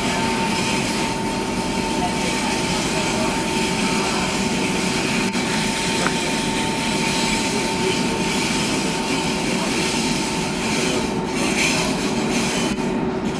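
Berlin S-Bahn train heard from inside the carriage, rolling steadily over a curve with wheel-and-rail noise and a steady whine.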